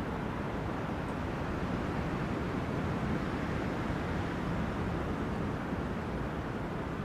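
Wind blowing through forest trees: a steady, low rushing noise that swells slightly around the middle.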